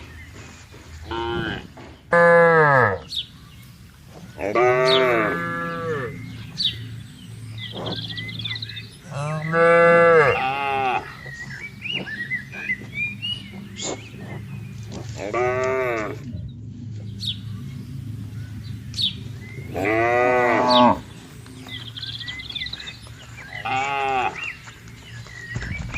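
Cattle mooing again and again, about seven long calls a few seconds apart, some of them dropping in pitch at the end.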